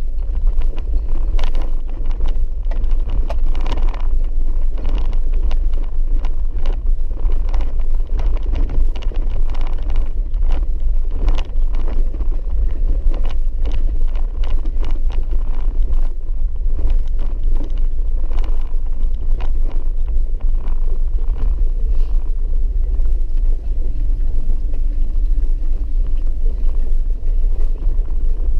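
Vehicle driving over a rough dirt road, a steady low rumble with frequent short knocks and rattles from the bumps.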